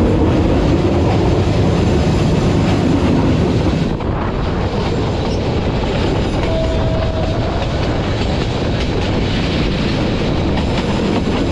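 Passenger train running on the rails, heard from on board: a steady rumble and wheel-on-rail noise that eases slightly about four seconds in. A short faint tone sounds briefly a little past the middle.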